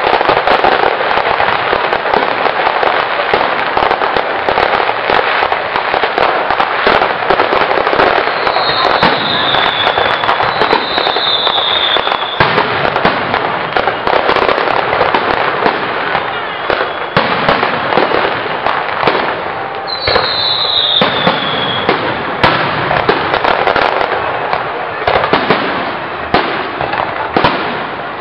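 Fireworks display: a dense, continuous barrage of aerial shells bursting with bangs and crackling, with three short falling whistles about 8, 10 and 20 seconds in.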